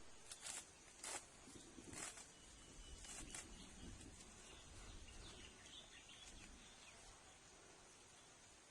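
Quiet outdoor ambience: four or five soft taps in the first few seconds, then faint bird chirps.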